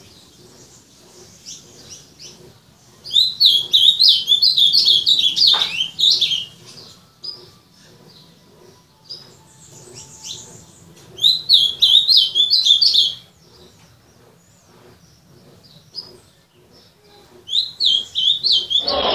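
Ultramarine grosbeak (azulão) singing: three phrases of quick, high, repeated short notes, separated by pauses of several seconds.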